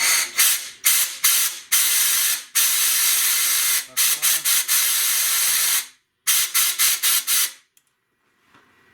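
Compressed-air blow gun hissing in a run of short blasts and two longer ones, air forced through a blocked oil passage of a 2TR engine's VVT-i system to clear the plug stopping oil flow. The blasts stop a little before the end.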